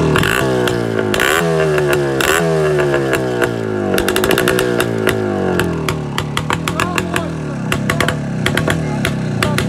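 Voskhod 3M 175 cc single-cylinder two-stroke motorcycle engine running with its exhaust baffles removed, loud, revved up and falling back several times. After about four seconds a rapid crackling from the open exhaust runs over the engine note.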